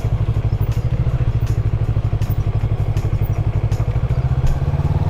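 Bristol Assassin 400 motorcycle engine running at low speed, a steady, evenly pulsing low beat.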